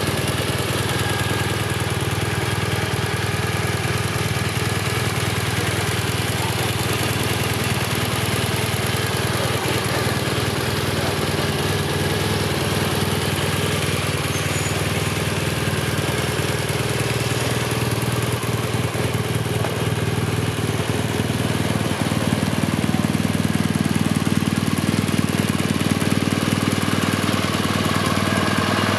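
BMW R1200 GS Adventure's liquid-cooled boxer twin idling steadily, getting slightly louder about three-quarters of the way through.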